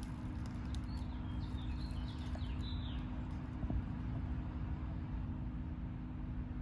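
Steady hum of running central air-conditioner condensing units, with a low rumble underneath. A few short bird chirps sound in the first three seconds.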